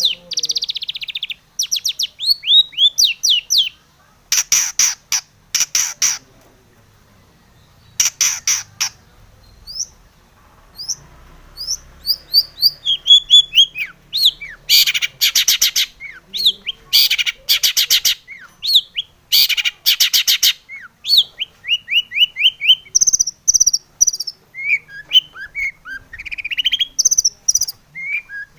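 Long-tailed shrike (cendet) singing: runs of quick, high, downward-slurred chirps alternating with harsh, grating rasps, with two short pauses about six and ten seconds in.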